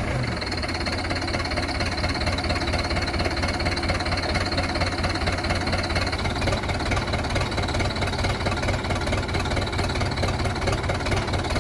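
Vehicle engine running steadily at an even idle-like pace.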